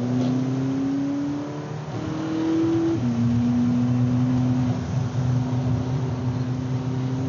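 Volkswagen Polo GTI's turbocharged four-cylinder engine heard from inside the cabin under power on track: the engine note climbs, drops sharply about three seconds in at a gear change, then holds steady.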